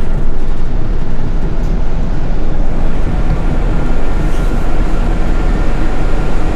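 City bus heard from inside the cabin while driving: steady engine and road rumble, heaviest in the low end. A faint high steady whine joins about halfway through.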